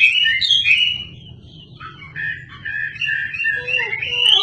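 Wambi songbird singing in fast, varied whistled and chattering phrases, with a brief softer spell about a second in before the song builds again. A lower warbling line joins near the end.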